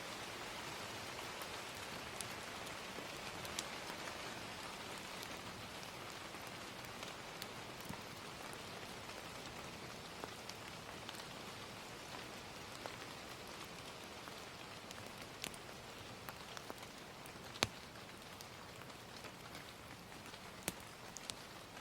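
Gentle rain falling steadily, with a crackling fire popping now and then as sharp, scattered crackles; the loudest pop comes about three-quarters of the way through.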